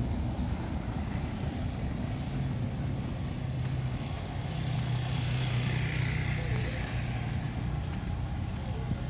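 A motor vehicle's engine hum passing by, swelling to its loudest about five to seven seconds in, over steady outdoor noise.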